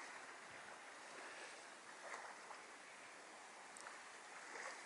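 Faint steady hiss of open-beach ambience, wind and distant waves, with no distinct event.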